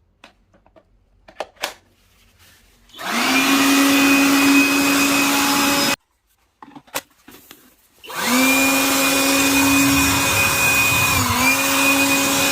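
Blower motor switched on twice: a few clicks, then it spins up to a steady whine with a rush of air, stops abruptly after about three seconds, and after more clicks starts again and runs on, dipping briefly in pitch near the end.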